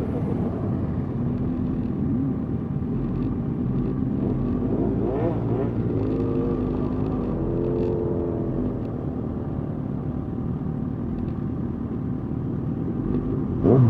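Motorcycle engines running in a slow-moving group with a steady low rumble, engine pitch rising and falling in the middle as bikes rev. A short, loud rev blips up sharply near the end.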